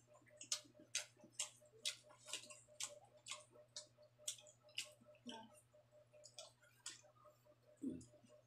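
Faint, wet chewing clicks of a person eating pork innards and rice with the mouth open, about two clicks a second, over a low steady hum. A soft low thump comes about five seconds in and another near the end.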